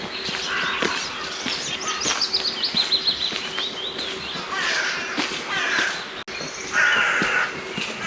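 Outdoor morning birdsong: several harsh, cawing calls from more than one bird, with a songbird's quick run of high notes falling in pitch about two to three seconds in.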